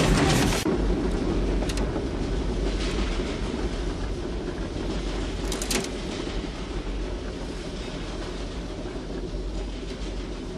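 Steady rumble of a runaway diesel locomotive train running, with faint clicks over it. A louder rush of noise opens and stops suddenly less than a second in.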